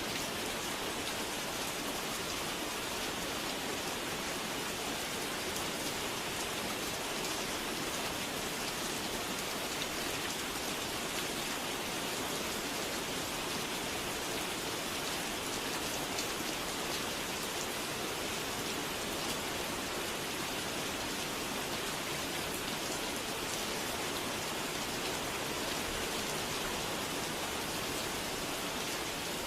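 Steady, even rainfall, a dense hiss of drops with no change in intensity.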